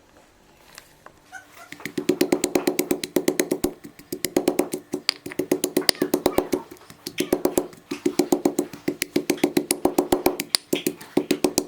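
Kitchen knife rapidly chopping garlic on a cutting board, mincing it fine. Fast, even knocks at about nine a second come in runs of a second or so with short pauses, starting about two seconds in.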